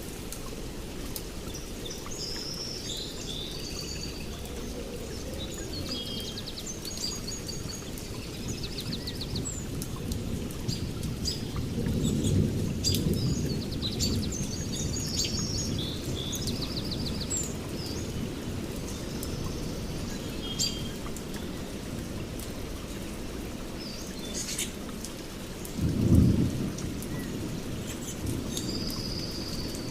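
Steady rain with birds chirping and trilling throughout. Thunder rumbles about twelve seconds in, and a louder, sharper thunderclap comes near the end.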